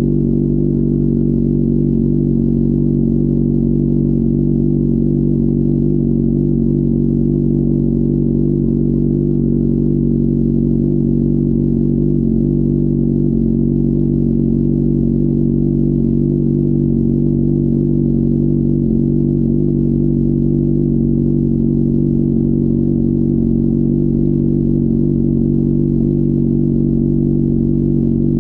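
Honda CBR600RR inline-four engine running steadily at one constant engine speed, with no revving or gear changes.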